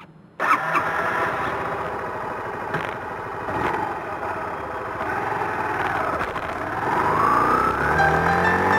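Motorcycle engine running, cutting in abruptly about half a second in. Its pitch rises over the last couple of seconds as it revs up.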